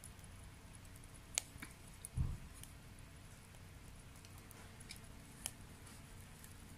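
Wet wood burning in a homemade secondary-combustion stove, crackling with a few sparse, sharp pops, the loudest about one and a half seconds in. A dull low thump comes just after two seconds.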